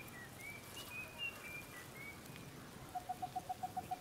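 Birds calling faintly: a string of short, high whistled notes throughout. About three seconds in comes a lower, rapid run of even pips, about eight a second, lasting about a second.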